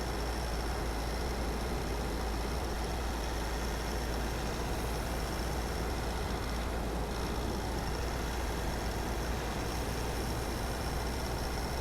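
Car driving at a steady pace: a constant low rumble of engine and tyre noise, with a thin steady high whine.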